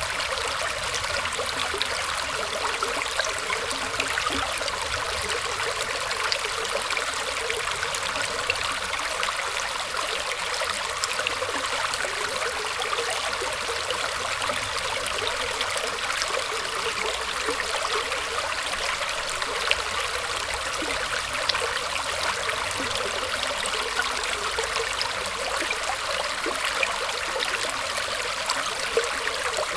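Water flowing and trickling steadily, with a constant rushing and many small splashes and gurgles.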